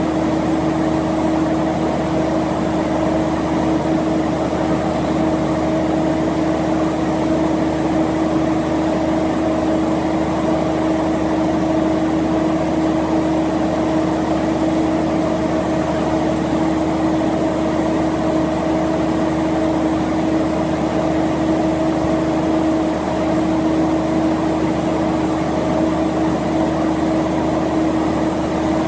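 Lovol 1006TANG natural gas engine running steadily at constant speed, an even hum with a constant whine on top and no change in pitch or level.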